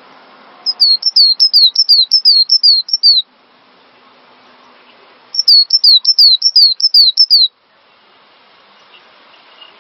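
Cinereous tit (gelatik batu) singing: two runs of quick, repeated falling whistled notes, about four notes a second, each run lasting two to three seconds with a short pause between.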